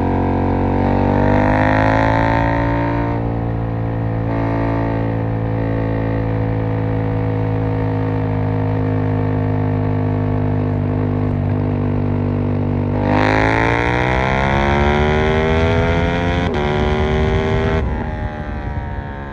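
KTM 890 Duke R parallel-twin engine under way: a steady cruise, then about two-thirds of the way in a hard pull with the pitch climbing quickly. A brief break in the climb marks an upshift, and the throttle closes near the end, where the engine note drops and the sound gets quieter.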